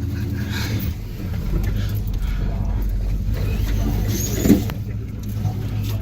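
Truck engine running steadily at low speed while crawling over rough, muddy off-road ground, with a brief knock about four and a half seconds in.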